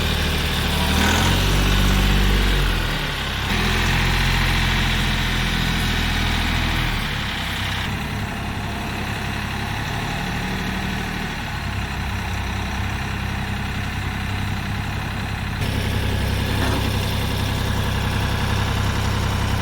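Kioti CK3510 compact tractor's three-cylinder diesel engine running, its engine speed changing: working harder and louder over the first several seconds, then settling to a lower, steadier note.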